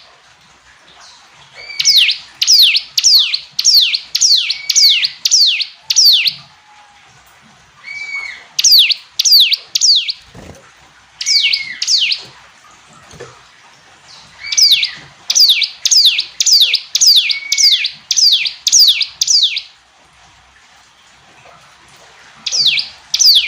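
Bar-winged prinia (ciblek gunung) singing: bouts of fast, high notes that each sweep sharply downward, about three a second. Four bouts of a few seconds each, with short pauses between.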